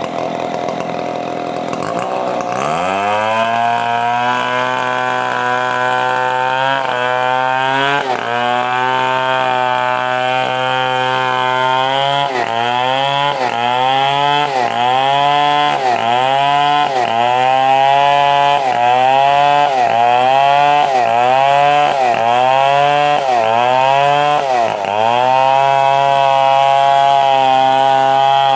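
Stihl 070 two-stroke chainsaw ripping a coconut palm trunk lengthwise into planks. About two seconds in the engine revs up to full throttle and holds a steady high note. From about halfway its pitch dips and recovers roughly once a second, then it runs steady again near the end.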